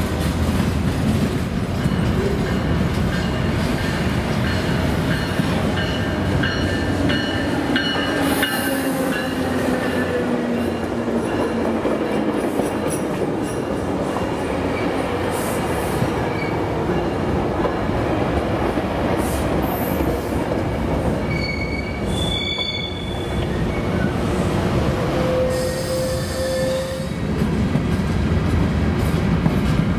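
A train rolling past on the track: steady wheel-on-rail running noise, with thin high squeals from the wheels now and then.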